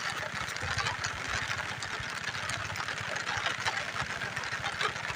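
A small engine running steadily with a fast, even low pulsing.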